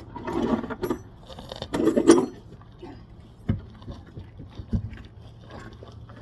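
Metal tools and brake parts clinking and clanking by hand, with a sharp clank about two seconds in and two short dull knocks later, over a steady low hum.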